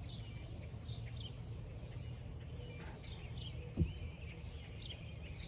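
Birds calling outdoors, short chirps repeating throughout over a steady low rumble. A single low thump comes a little under four seconds in.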